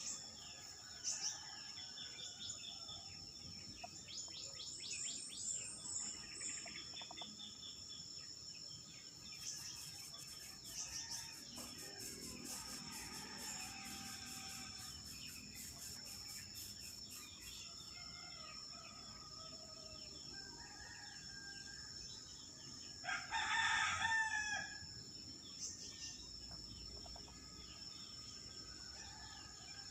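Outdoor ambience with a steady high-pitched insect drone and scattered small bird chirps. About two-thirds of the way through, a rooster crows once, loud, for about two seconds.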